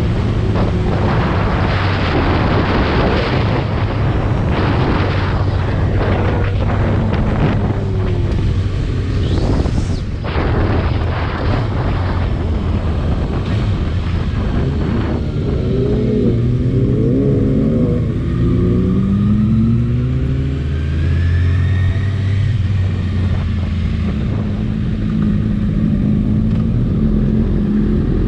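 Motorcycle engine running at speed on a race track, with its pitch rising and falling as the revs change near the middle, under a dense, noisy rush in the first half.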